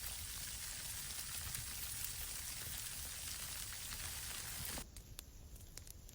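Steady rain falling and pattering, a dense even hiss. About five seconds in it cuts off abruptly, leaving a quieter background with a few scattered sharp clicks.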